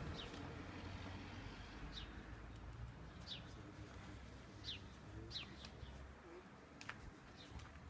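Small birds calling: short, high chirps, each falling in pitch, about five of them spaced a second or so apart, over a faint low rumble.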